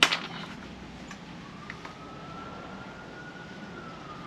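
A siren wailing in the distance, a single faint tone that rises slowly and then falls away. A knock and a few light clicks of tool bits being sorted come in the first two seconds.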